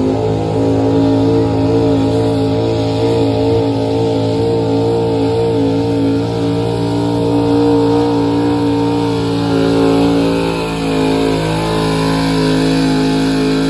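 Pulling truck's engine at full throttle during a pull, held at a steady high pitch.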